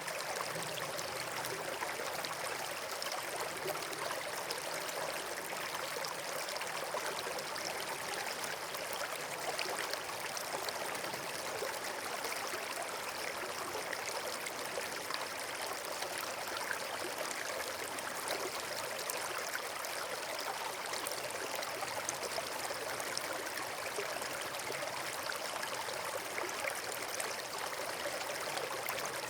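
Running water rushing steadily, as of a stream or small waterfall.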